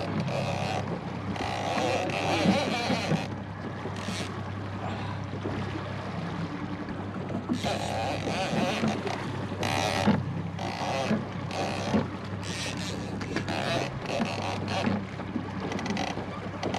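Small boat's outboard motor running slowly in gear with a steady low hum, while wind gusts buffet the microphone in repeated bursts.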